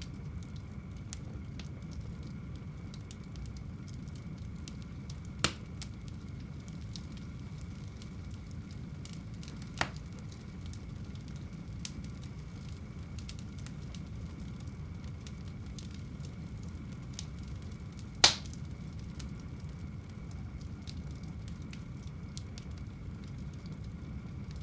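Fire in a home fireplace crackling steadily over a low rumble, with three louder sharp pops about five, ten and eighteen seconds in; the last is the loudest.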